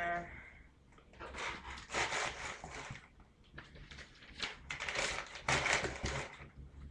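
Packaging being handled and rustled, crinkling in irregular bursts.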